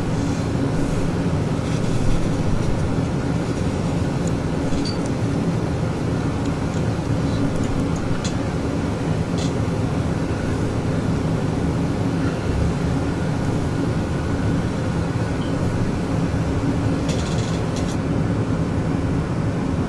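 Steady low mechanical hum with a rushing noise, and a few faint ticks.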